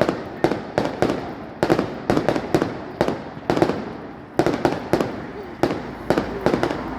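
Fireworks display: a rapid, irregular string of sharp bangs from bursting shells, two or three a second, each dying away quickly.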